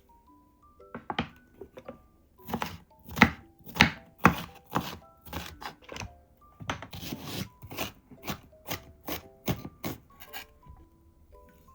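Knife chopping food on a cutting board: a run of sharp chops, roughly two a second, under soft background music.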